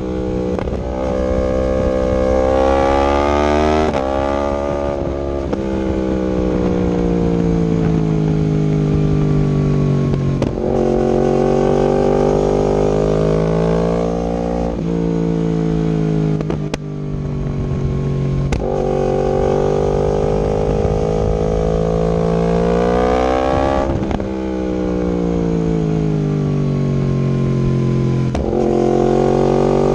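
2019 Yamaha R1's crossplane inline-four running through an Akrapovic exhaust with link pipe while the bike is ridden. The engine note climbs and falls in pitch, with several abrupt jumps where the rider shifts gear.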